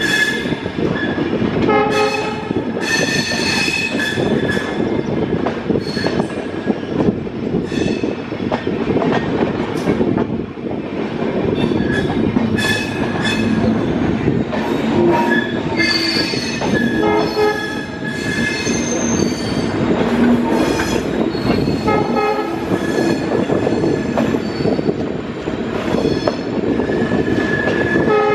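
Indian Railways express train running slowly round a curve, its coaches and wheels rumbling on the rails. Pitched tones ring out over the rumble several times.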